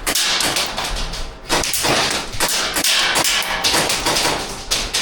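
Airsoft guns firing in quick runs: a dense string of sharp clicks and snaps, with a brief lull about a second and a half in.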